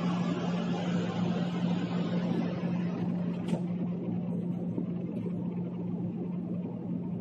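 Steady rumble of a diesel railcar heard inside its passenger cabin, under a constant low hum. The higher hiss thins out about halfway through.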